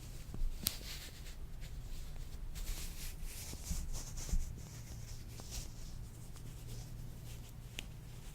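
Latex-gloved hands rubbing and stretching close to the microphone, a soft rustling hiss broken by scattered small clicks and snaps.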